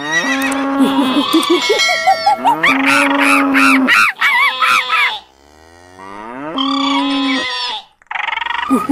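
A string of cartoon animal call sound effects: several long cow moos, with honking and other wavering animal calls between them and a quieter stretch just past the middle.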